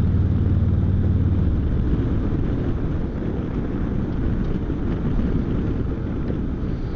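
Harley-Davidson Street Glide Special V-twin engine running on the road, with wind noise on the microphone. The steady engine note eases off about a second and a half in, leaving a rougher rumble under the wind.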